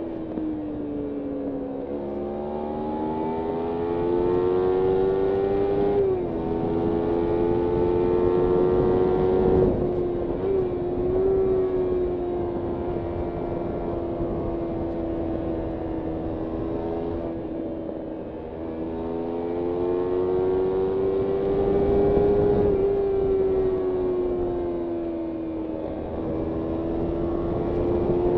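Kawasaki Ninja 300's parallel-twin engine under way, its pitch climbing under throttle and dropping at upshifts a few times, with a long stretch at a steady pitch in the middle. Wind noise rushes under the engine.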